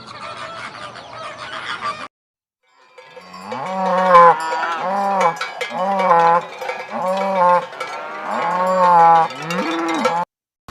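Geese honking for about two seconds, cut off suddenly. After a brief silence, a farm animal calls about seven times in quick succession, each call short and rising then falling in pitch.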